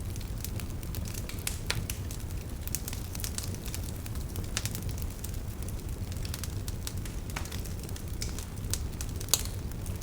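Wood fire burning in a fireplace, with scattered sharp crackles and pops over a steady low rumble of the flames; one louder pop near the end.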